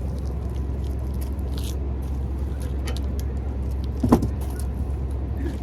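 8th-generation Honda Civic engine idling steadily through its old stock exhaust, a deep even rumble, with one brief louder sound about four seconds in.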